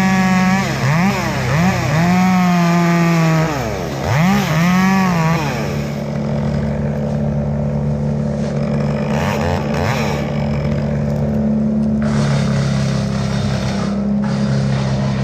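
Two-stroke chainsaw revving up and down in several short bursts, then running at a steady high speed, over the steady hum of another engine running throughout.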